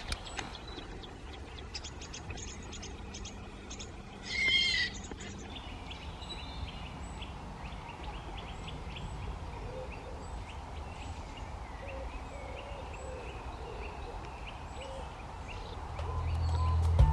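Woodland birds calling: scattered high chirps and ticks, one louder harsh call about four seconds in, and a run of low, short cooing notes in the middle. Music fades in near the end.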